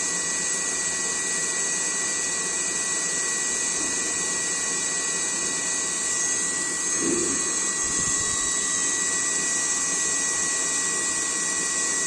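Small electric fan motor of a homemade cooler running steadily, a constant high whine over an airy hiss. A faint knock or two about two-thirds of the way through.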